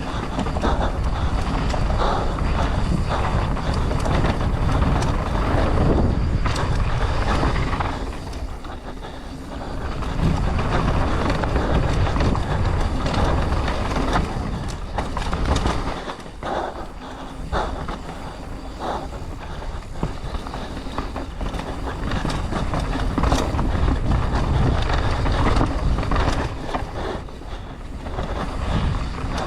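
Mountain bike descending a rough trail at speed: the tyres rumble over dirt and rock while the bike rattles with constant clicks and knocks, and wind buffets the microphone. It eases off briefly a few times.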